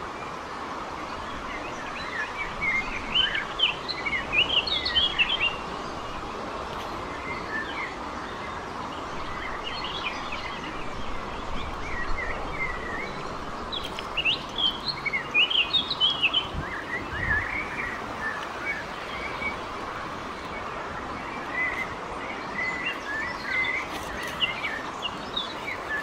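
Small songbirds singing in bursts of quick, high chirping phrases, several times over, above a steady hiss.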